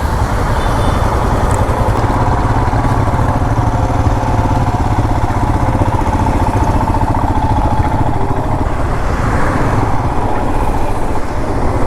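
Motorcycle riding at road speed: steady engine and road noise.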